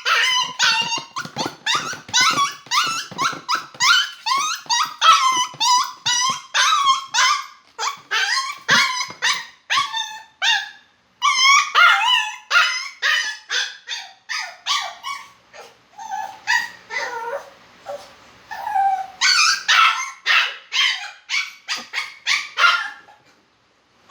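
Poodle yipping and whimpering in rapid, high-pitched cries, about two to three a second, breaking off briefly about eleven seconds in and going quieter for a few seconds after that.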